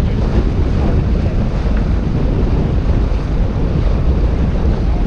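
Wind buffeting the microphone aboard a sailboat under way, a steady low rumble, with water rushing and splashing along the hull.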